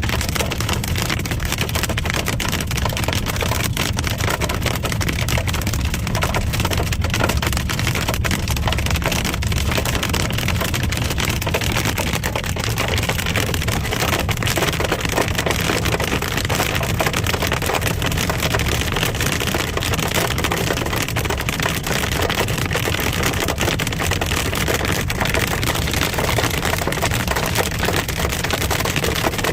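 Hail and rain pelting the body and windshield of a moving car: a dense, steady clatter of small hits over the steady low rumble of the car on the road.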